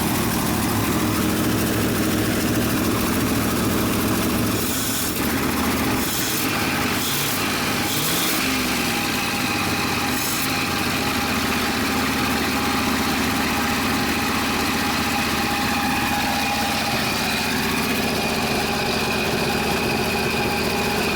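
1976 Ford F-600 dump truck's carbureted engine running, its speed shifting briefly about eight seconds in, with a few short hissing noises between about five and ten seconds in. The owners have found a large vacuum leak that makes it run rough and die when given throttle.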